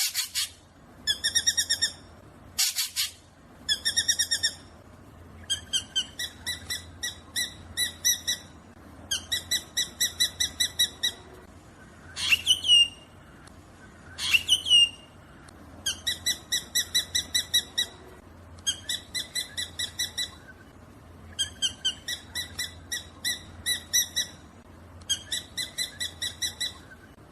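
Black drongo calling: runs of short repeated notes, about four a second, in bursts of a second or two with short gaps, and two sweeping calls near the middle.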